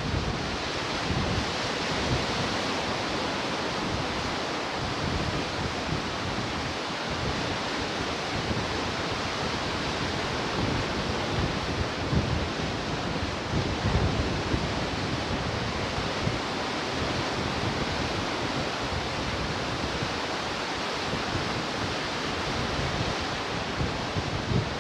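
Ocean surf washing steadily, with gusts of wind buffeting the microphone now and then.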